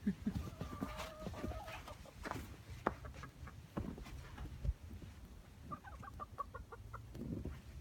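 Hens clucking: a drawn-out pitched call in the first second, then a quick run of short clucks about six seconds in.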